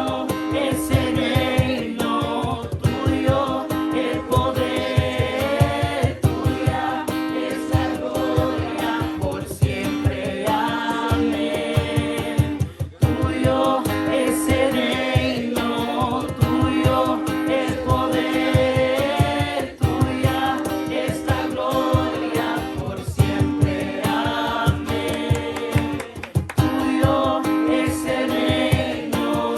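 A group singing a worship song together with instrumental accompaniment and a steady beat.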